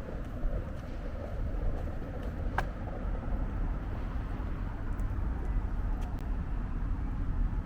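Steady low rumble of outdoor street ambience, with vehicle traffic and some wind on the microphone, and one sharp click about two and a half seconds in.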